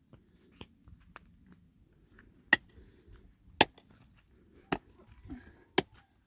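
A series of sharp knocks, six strokes at about one a second, the loudest two a few seconds in.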